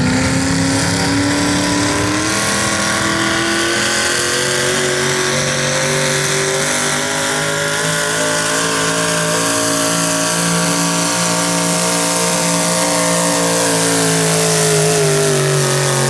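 Small-block V8 engine of a modified 4x4 pulling truck at full throttle while dragging the weight sled. It runs steadily at high revs, and the pitch sags slightly near the end as the load builds.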